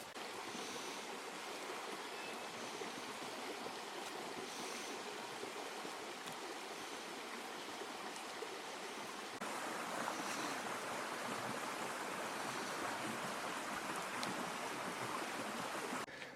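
Rushing water of a river below a waterfall, a steady noisy wash that gets louder a little over halfway through.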